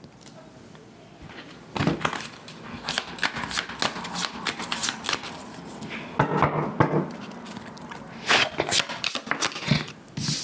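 Tarot cards being shuffled by hand. The first second or two is quiet, then come rapid runs of crisp card flicks and slaps in irregular bursts.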